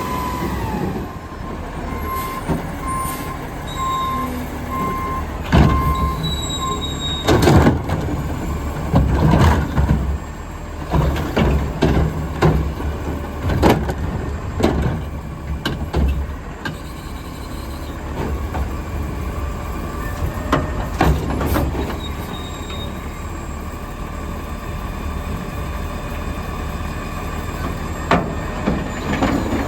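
Diesel Autocar garbage truck with a McNeilus front loader and Curotto Can arm working a pickup. The engine runs throughout, and a warning beeper sounds in short pulses early on. From about five seconds in there is a string of loud bangs and clatters, typical of carts being tipped and shaken into the Curotto Can, with a few more bangs near the end.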